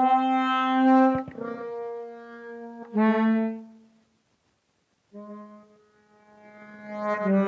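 Suzuki Sirius S48B bass chromatic harmonica playing held low notes through a Boss MD500 effects pedal with added reverb, each note rich in overtones. Three notes step down in pitch, the sound stops for about a second, then another long low note starts.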